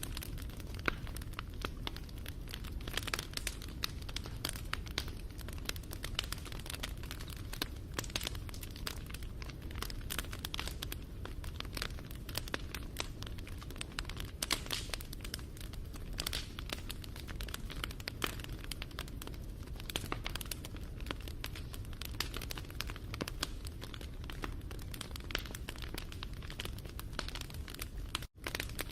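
Wood fire crackling and popping in dense, irregular snaps over a steady low rumble. The sound drops out for a split second near the end.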